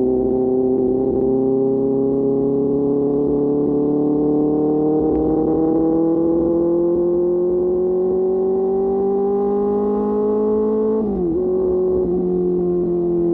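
QJ Motor SRK600 inline-four engine through an SC-Project exhaust, pulling steadily with its pitch climbing slowly for about eleven seconds, then dipping sharply and running on at a steady, slightly falling pitch.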